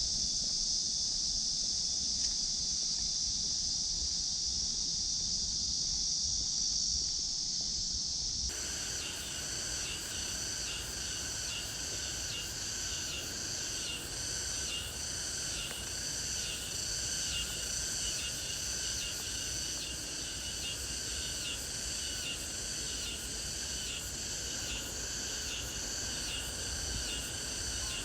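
A summer chorus of cicadas buzzing. At first it is a dense, steady high hiss. About a third of the way in it changes abruptly to a pulsing chorus at several pitches, with about one to two pulses a second.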